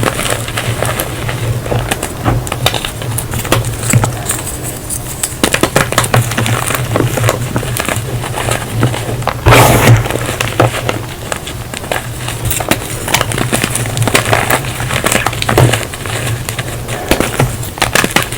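Reformed blocks of gym chalk being squeezed and crushed, giving dense squeaks and crumbly crackles, with one louder crunch about halfway through. A low steady hum runs underneath.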